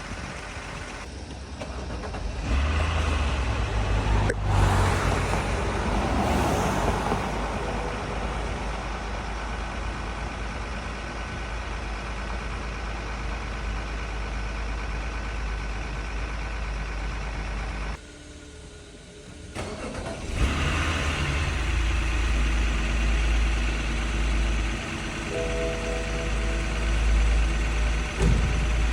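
BMW 528i's N52 inline-six engine running, with an unidentified strange noise that the owner is trying to trace. The sound drops much quieter about eighteen seconds in and comes back strongly about two seconds later.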